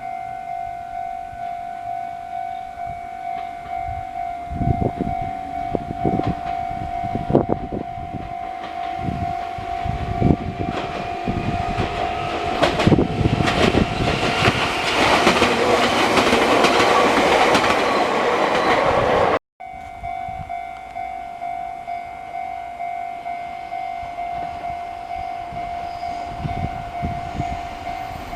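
Japanese level-crossing warning bell ringing steadily while a train passes over the crossing. Wheels thump over the rail joints, then the sound builds to a loud rush of passing cars and cuts off suddenly about two-thirds of the way in. The crossing bell carries on after the cut.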